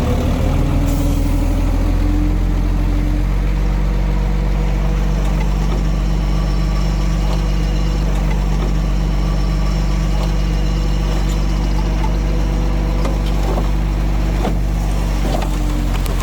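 A heavy diesel engine of earthmoving machinery running steadily with a deep, even drone, with a few short knocks near the end.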